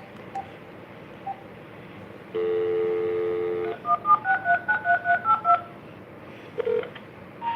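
House phone (landline) handset: a steady dial tone for about a second and a half, then about ten quick touch-tone keypad beeps as a phone number is dialed.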